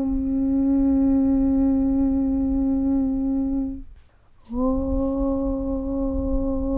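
A long, steady chanted 'Aum' hum held on one low note. It fades out just before four seconds in, stops for about half a second, and starts again, sliding up slightly onto the same note.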